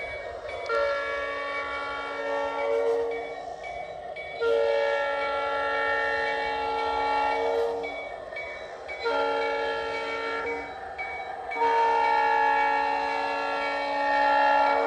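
Diesel locomotive horn sounding a chord in four blasts, long, long, short, long: the standard grade-crossing signal, over the steady running noise of the train.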